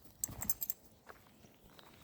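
A brief cluster of sharp crackles and crunches, a footstep on dry leaves and twigs of the woodland floor, loudest about half a second in.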